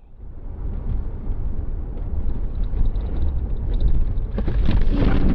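Car on the move, its low road and engine rumble growing steadily louder, with sharper rattling noises building near the end.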